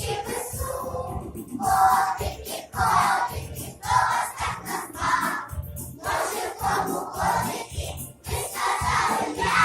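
A group of young children singing a song together over musical accompaniment with a steady beat.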